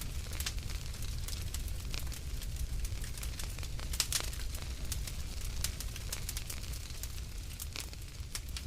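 Wood fire burning in a fireplace, crackling with irregular sharp pops over a low steady rumble; the loudest pop comes about four seconds in.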